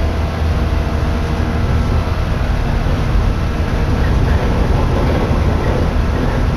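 Steady running noise of a Shinano Railway electric train heard from inside the carriage: a continuous low rumble of the wheels and running gear at speed.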